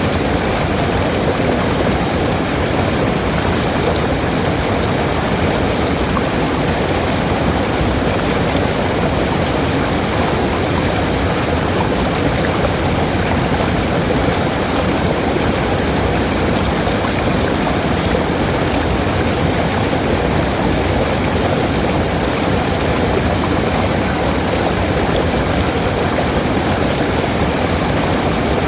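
Waterfall rushing steadily, a constant dense noise of falling water with most of its weight in the low and middle range.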